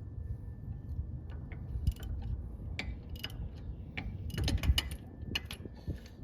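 Irregular metallic clinks and clanks of tools and brake hardware being handled during truck brake work: a string of sharp strikes with short ringing, busiest about four to five seconds in, over a steady low rumble.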